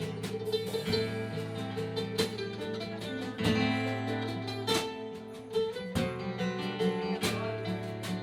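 Live band playing an instrumental break in a slow song, with strummed acoustic guitar prominent over sustained pitched notes; no singing.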